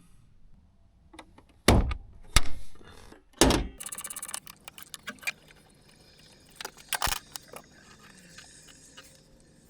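Tools and metal parts being handled during a brake job: a few sharp knocks and clinks, a short burst of rapid clicking about three and a half seconds in, then faint scattered clatter.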